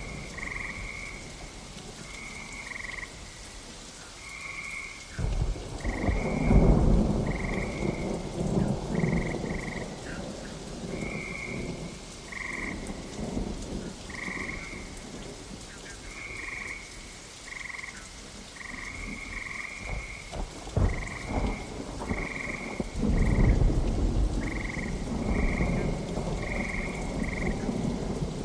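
Steady rain with two rolls of thunder, one about five seconds in and a longer one about twenty-three seconds in. Short high calls of small night animals repeat about once or twice a second throughout.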